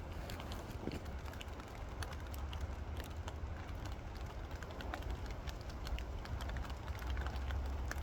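Outdoor woodland ambience in light stormy weather: a steady low wind rumble on the microphone, with many irregular sharp ticks, like raindrops dripping and pattering on leaves.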